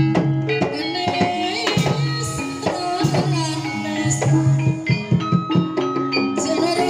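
Traditional Javanese Barongan accompaniment music: hand drums beat over sustained pitched instruments, with a melodic line that bends up and down in pitch.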